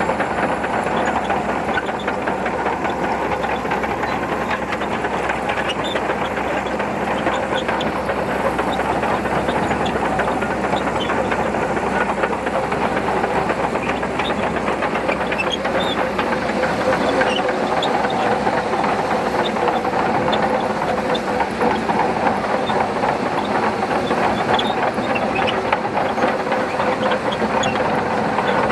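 Shantui DH17C2 bulldozer's diesel engine running steadily while it pushes sand, with a constant rattle and clank from its steel tracks.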